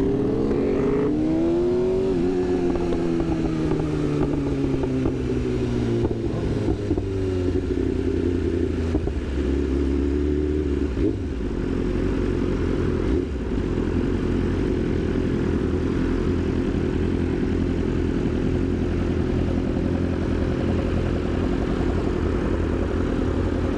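Sportbike engine slowing as the bike rolls in: its note rises briefly, then falls over several seconds, and from about nine seconds in it settles into a steady idle.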